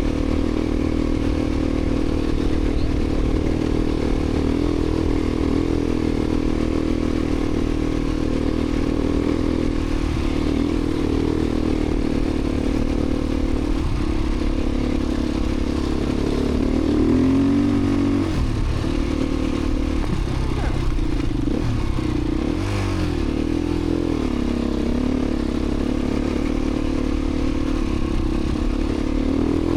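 Beta 350 RRS dirt bike's four-stroke single-cylinder engine running under way, its pitch dipping and rising several times in the second half as the throttle is rolled off and back on.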